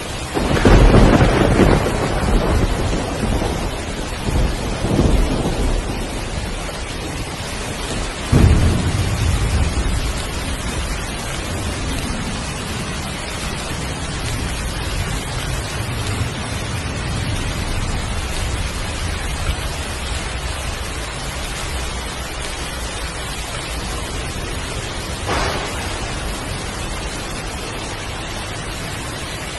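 Heavy steady rain with thunder. A long loud rumble starts about half a second in and swells again around five seconds, a sharp crack and rumble comes near the middle, and a fainter crack comes near the end.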